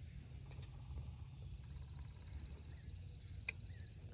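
Faint outdoor ambience: a steady low rumble of wind on the microphone, and a high, rapid trill that starts about a second and a half in and stops near the end. There are a couple of faint short chirps and a single sharp tick about three and a half seconds in.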